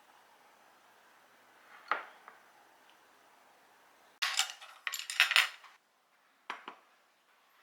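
Kitchen utensils and dishes clinking and clattering: a single clink about two seconds in, a burst of clattering a little past the middle, then two short knocks.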